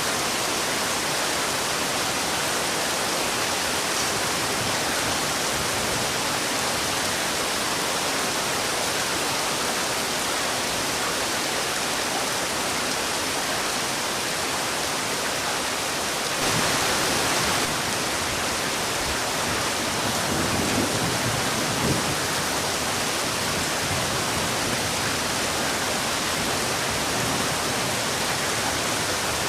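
Heavy rain falling steadily, a dense even hiss, with a brief louder surge a little past halfway.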